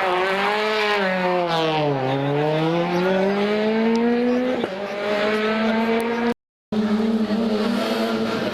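Rally car engine under hard driving: the note drops to a low about two seconds in, as if slowing for a corner, then climbs steadily for a couple of seconds under acceleration and holds high. The sound cuts out for a moment about two-thirds of the way through, then a steady engine note goes on.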